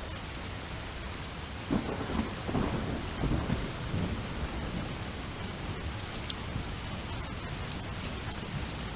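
Steady rain falling, with a roll of thunder that cracks in about two seconds in and rumbles on in several swells for about three seconds before fading back into the rain.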